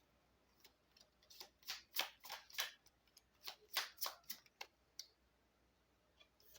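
Oracle cards being shuffled and drawn by hand: a scattered run of about a dozen quick, sharp card flicks and taps between about one and five seconds in.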